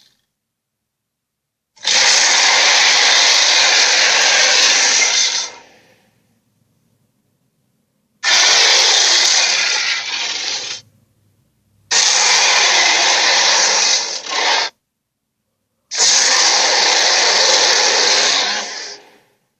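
Four giant-ape roar sound effects, each about three to four seconds long, with silence between them.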